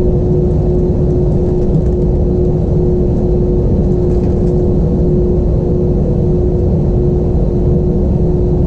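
Airbus A320 cabin noise from its IAE V2500 engines, a steady low rumble with a constant two-note hum.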